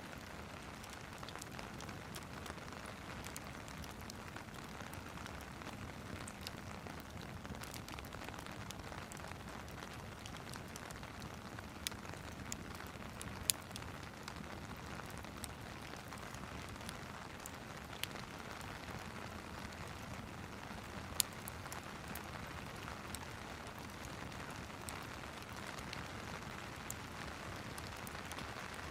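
Steady rain mixed with a crackling wood fire: an even hiss of rain with scattered sharp pops from the burning wood, a few of them louder.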